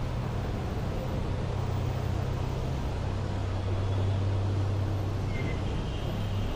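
City street traffic: a steady low engine hum from a vehicle close by over a wash of road noise. The hum drops slightly in pitch about three seconds in and stops near the end.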